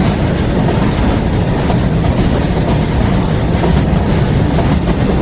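Train running on the track: a steady, loud noise of wheels on rails, heaviest in the low range, with no horn sounding.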